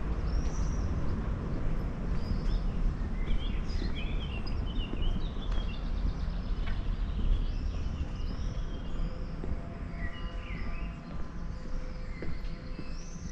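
Small birds chirping and singing, many short rising and falling calls, over a steady low rumble.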